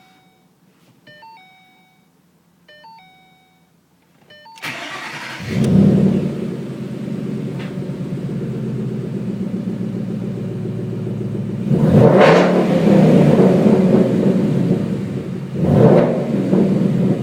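A car's chime sounds a short falling run of tones about every two seconds. Then the 2012 Ford Mustang's 5.0 V8, running without mufflers, cranks about four and a half seconds in, catches with a flare of revs and settles to a loud idle. Two throttle blips come near the end, about four seconds apart.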